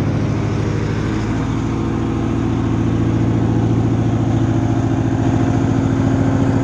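Heavy diesel engine of large machinery running steadily with a deep, even hum, getting slightly louder a few seconds in.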